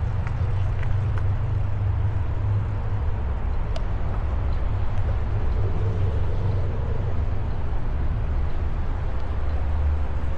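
Steady low rumble of riding an e-bike along a paved trail, with a faint steady whine coming in about halfway and a single light click a little under four seconds in.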